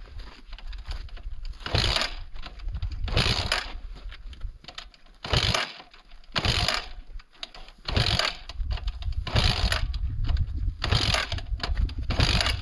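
Motorcycle engine being cranked over again and again without catching, in short surges about every one and a half seconds over a low rumble.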